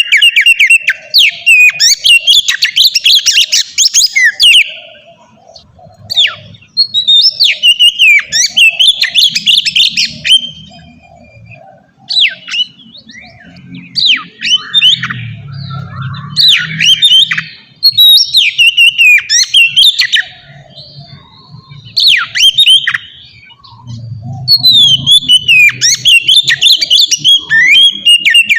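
Oriental magpie-robin (kacer) singing loudly in long, free-flowing phrases of rapid, varied whistles and chattering notes, each phrase a few seconds long and broken by short pauses.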